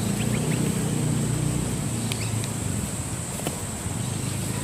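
Steady low motor hum under a high, even insect drone, with a few short bird chirps.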